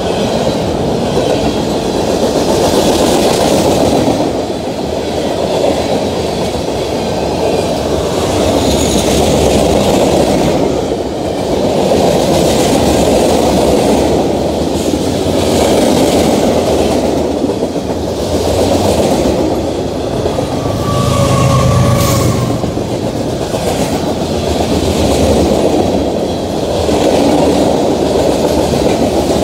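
A long freight train of covered hopper cars rolling past close by, its wheels rumbling and clacking on the rails. The sound is loud and steady, swelling and easing every few seconds as the cars go by.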